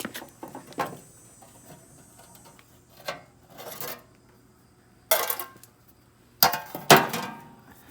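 Metal clanks and clinks as the bolted steel cover plate is worked off the underside of an MTD snowblower. There are several separate sharp knocks with short ringing, the loudest about five and seven seconds in.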